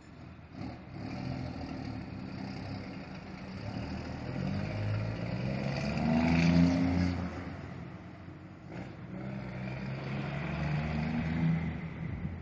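Scania R420 truck's straight-six diesel engine pulling away under load, climbing in pitch and loudness, dropping back at a gear change a little past the middle, then climbing again in the next gear.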